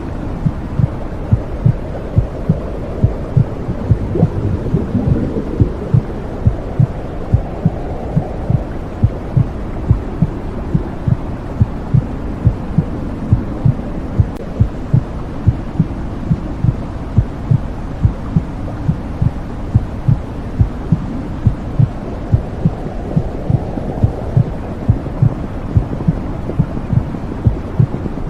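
Womb sound: a steady heartbeat thumping evenly, a little over once a second, over a continuous low whooshing rumble, the noise heard inside the mother's womb.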